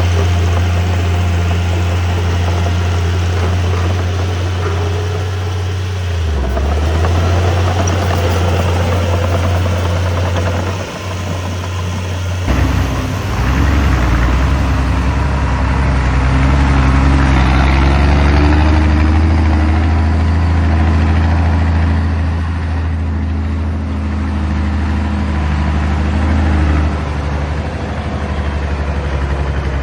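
Heavy earthmoving machine's diesel engine running steadily with a deep hum. The sound changes abruptly about twelve seconds in, and after that the engine note carries more pitched overtones.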